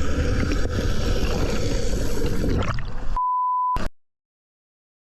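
Loud, rough, low rushing noise that cuts off about three seconds in, replaced by a short steady beep of the kind used as a censor bleep; then the sound stops.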